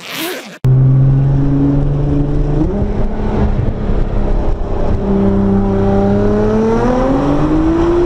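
A brief burst of static hiss, cut off, then the in-cabin sound of a Nissan GT-R's twin-turbo V6 held at steady revs. Its pitch steps up a couple of seconds later and climbs steadily near the end as the car accelerates hard.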